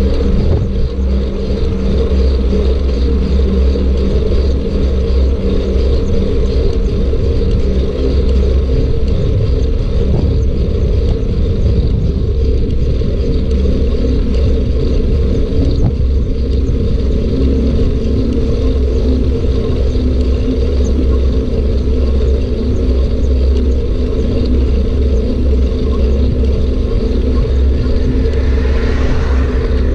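Steady, loud low rumble of riding a bike: rolling and wind noise on the rider's camera microphone.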